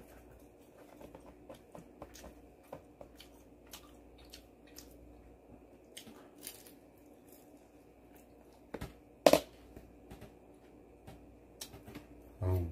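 Close-up chewing and biting of battered fried pork, with many small mouth clicks and light taps. One louder, sharp sound stands out about nine seconds in.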